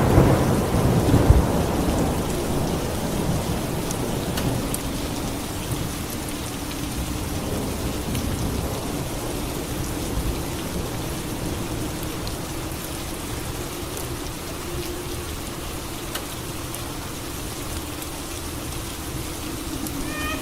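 Steady rainfall with a thunderclap right at the start that rolls off into a rumble over the next few seconds.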